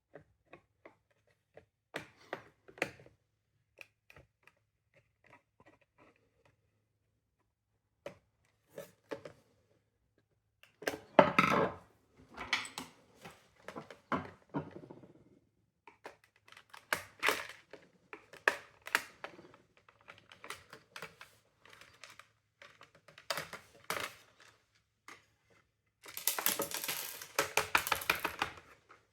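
Plastic parts of a window vacuum cleaner being handled during disassembly: scattered clicks and knocks, with denser clattering and scraping about eleven seconds in and again near the end.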